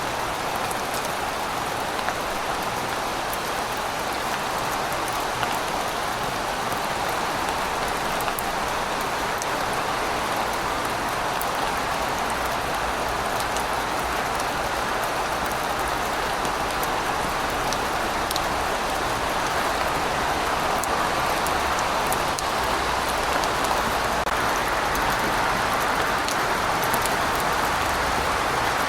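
Steady rain falling, an even hiss with scattered sharp drop ticks. A low rumble joins in about halfway through.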